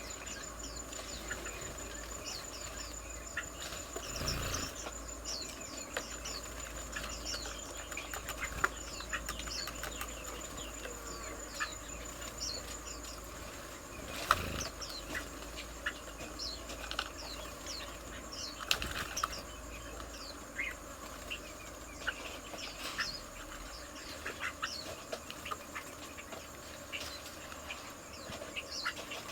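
Small birds chirping in a garden, with many short, quick calls throughout. A steady high insect whine runs for the first half and stops. There are a few brief rustling bursts that sound like wing flutters, the loudest about 14 seconds in.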